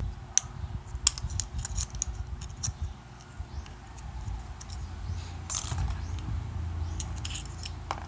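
Scattered small clicks and taps of plastic parts being handled, over a low rumble of handling noise.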